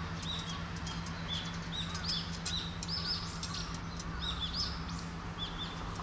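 Small birds chirping over and over in short arching notes, over a steady low hum, with scattered light clicks as a steel frame is handled.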